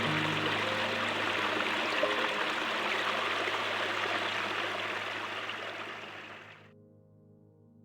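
A flowing stream rushing steadily, fading and cutting off about six and a half seconds in, over soft ambient music with long held tones.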